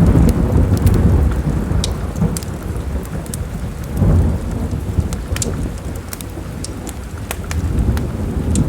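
A thunderclap breaks suddenly and rolls on as a long low rumble, swelling again about halfway through and near the end, over steady rain. Sharp crackles and pops of a wood fire in a fireplace are scattered throughout.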